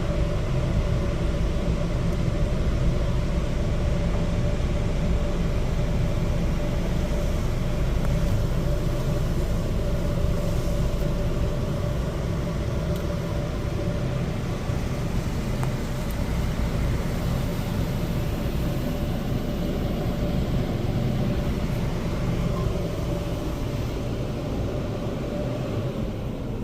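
Car wash dryer blowers running steadily, heard from inside a car, with a low rumble and a steady hum; the sound begins to die away near the end.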